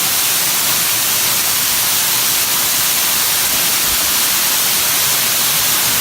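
Mountain waterfall's rushing water: a loud, steady hiss.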